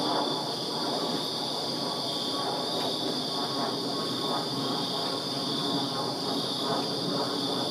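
Night chorus of crickets trilling without pause in two high, steady bands, over a lower, steady rumble of background noise.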